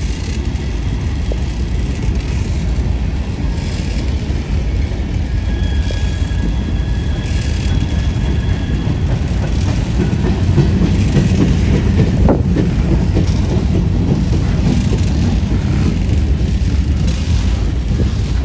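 Freight train cars rolling past: a steady low rumble of wheels on rail, growing a little louder about halfway through, with a faint thin wheel squeal for a few seconds near the middle.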